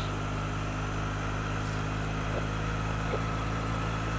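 2008 Triumph Bonneville's parallel-twin engine running at a steady, even pitch.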